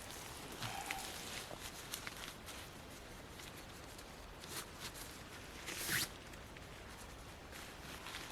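Nylon tent fabric and stuff sacks rustling as they are handled and unpacked, with scattered light clicks and a short zip-like rasp about six seconds in.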